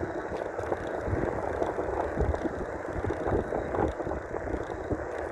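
Wind buffeting the microphone over tyre and road noise from an electric mountain bike riding slowly in pedal assist, with uneven gusty rushing and low thumps and no steady motor whine.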